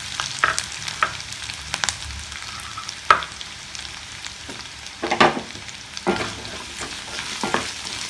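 Chopped shallots and garlic sizzling in hot oil in a stainless steel kadai, with scattered sharp crackles. A wooden spatula stirs them near the end.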